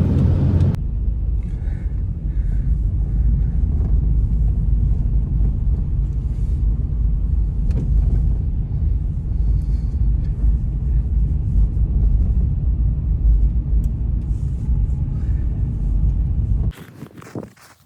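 A deep, steady rumble that cuts off abruptly near the end.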